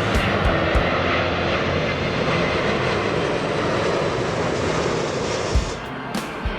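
Jet engines of a Swiss Airbus A340 landing, a steady rushing roar that weakens about five and a half seconds in, with a few low thumps near the end.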